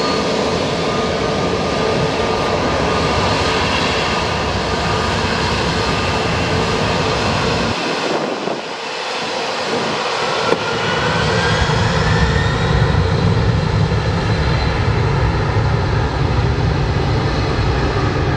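Jet airliner engines running loud and steady, with whining tones over the noise. About eight seconds in the deep rumble briefly drops away and returns with a click. After that the rumble is heavier and a whine rises in pitch.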